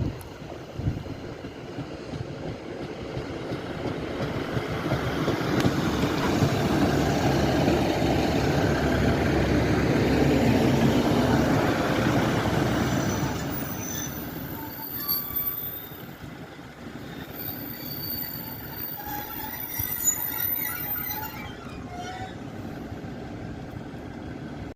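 Class 150 Sprinter diesel multiple unit running into the platform: its engine and wheels swell to a peak in the middle and then die away, with high squeals from the wheels and brakes as it slows to a stop.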